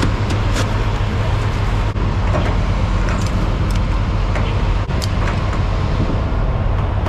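Steady low rumble of a semi truck running, with a few faint clicks.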